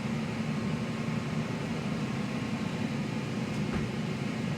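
Microwave oven running, a steady electrical hum with fan whir, as it cooks corn in the husk.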